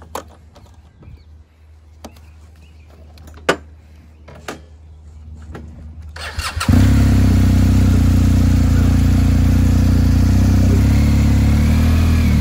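A few sharp clicks and knocks over a low hum, then a BMW R 1250 GS Adventure's boxer-twin engine is started: it cranks briefly and catches about seven seconds in, then runs loudly and steadily at idle.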